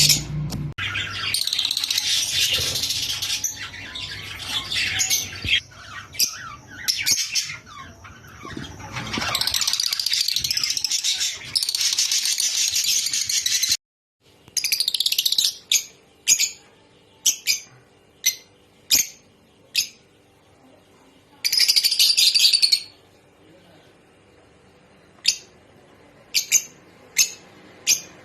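A flock of lovebirds chattering and chirping in high, shrill calls. Dense continuous chatter runs through the first half. After a brief break about halfway, single sharp calls come every second or so, with one more burst of chatter a little later.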